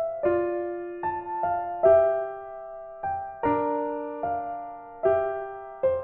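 Background music: a slow, gentle piano melody with chords, each note struck and left to fade.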